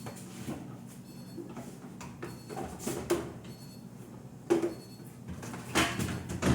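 Refrigerator drawers and doors being opened and closed: a few scattered knocks and clicks, the loudest about four and a half seconds in, over a steady low hum.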